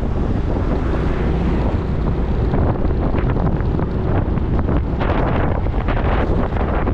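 Wind buffeting the microphone of a moving motorcycle, a steady loud rumble with gusty crackles through the middle.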